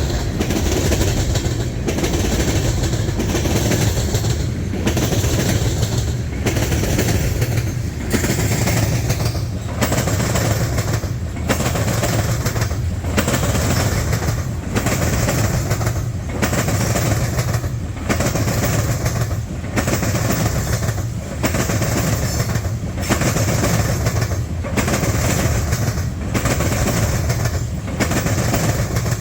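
Southbound Canadian National freight train's cars rolling past close by, steel wheels clattering in a steady rhythm that repeats about every 1.7 seconds as car after car goes by.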